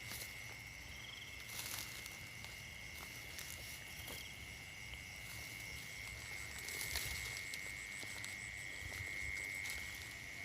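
Steady high-pitched chirring of night insects, with a pulsed trill repeating every second or two, and a couple of faint rustles near the start and about two-thirds of the way through.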